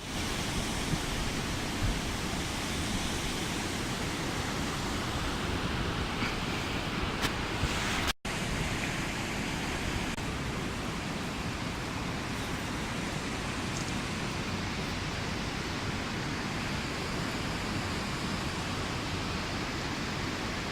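Steady, even rushing noise with no distinct events; it drops out for an instant about eight seconds in.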